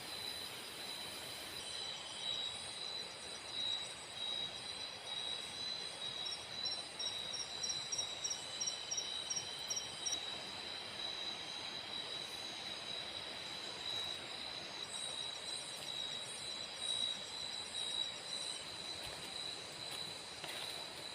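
Steady hiss of heavy rain in tropical forest, with an insect's constant high-pitched trill and a faster, higher pulsed chirping that joins twice, about a third of the way in and again near the end.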